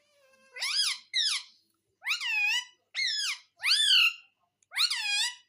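Pet parrot giving six loud, high-pitched calls in quick succession, each sweeping up and then down in pitch.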